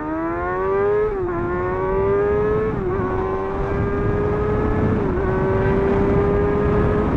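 Superbike engine pulling hard: its pitch climbs, drops at a gear change about a second in, then holds steady at high revs with brief small dips near three and five seconds, over a rush of wind noise.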